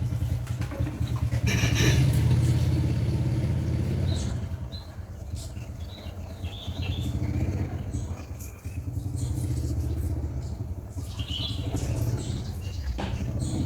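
A motor engine running steadily with a low hum, louder about two seconds in, with short bird chirps over it.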